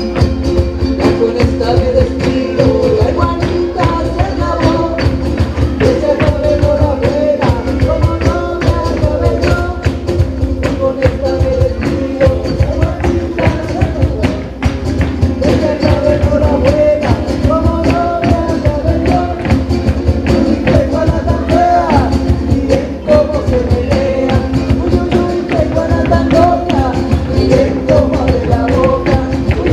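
A band playing Latin American music, with a dense, fast percussion beat under a melody.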